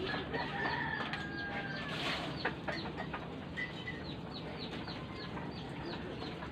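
Bird calls: a fast run of short, falling chirps, several a second, over a low steady hum.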